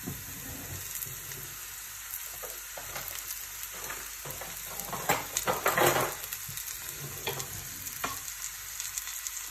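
Onion-and-green-chilli roti frying in a little oil in a non-stick pan, first side down, with a steady sizzle. The sizzle swells into a louder burst of crackling about five to six seconds in.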